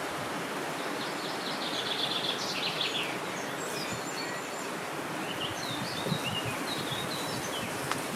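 Steady wind noise with small birds singing over it: a fast trill of rapid repeated notes about a second in, then scattered short chirps.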